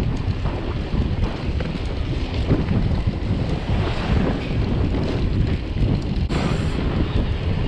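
Wind buffeting the microphone of a camera riding on a moving mountain bike: a steady, heavy rumble with a few faint clicks through it.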